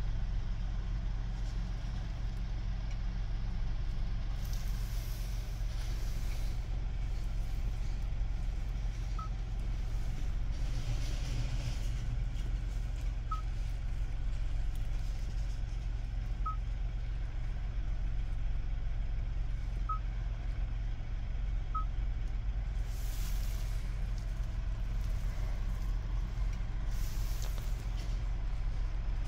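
Hyundai car engine idling inside the cabin, a steady low hum, while the infotainment touchscreen gives five short high beeps at irregular intervals as menu items are tapped. A few brief swells of hiss come and go.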